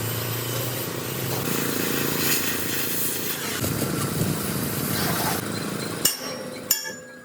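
A machine or engine running steadily, turning to a rougher rumble partway through, with two sharp knocks near the end.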